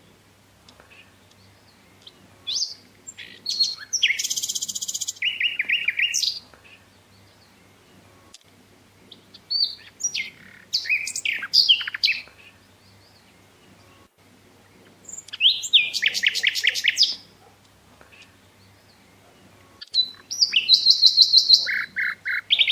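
Birdsong: four separate high-pitched phrases of chirps and fast trills, with pauses of a few seconds between them, over a faint steady low hum.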